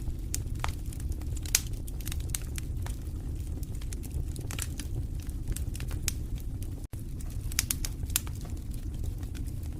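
Wood fire burning in a fireplace: a steady low rumble of flames with irregular crackles and sharp pops of burning logs. A few pops stand out louder, one about a second and a half in and another near the end.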